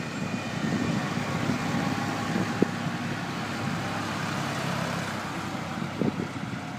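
Farm tractor engine running as it drives past, the noise building then easing off, with two short knocks, the sharper about two and a half seconds in.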